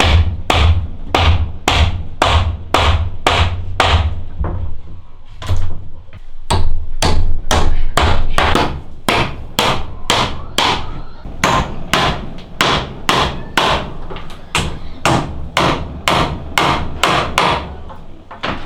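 Hammer blows on wood, struck in a steady run of roughly two to three blows a second, with a pause of about two seconds a third of the way in before the hammering resumes.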